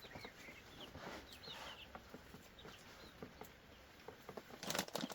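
Chickens and chicks peeping and clucking faintly, in short high chirps over a light patter of ticks. A brief loud rustle or clatter comes near the end.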